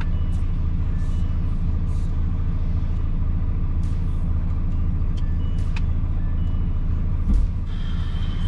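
Semi-truck's diesel engine running steadily as a deep drone, with a short low thump about seven seconds in.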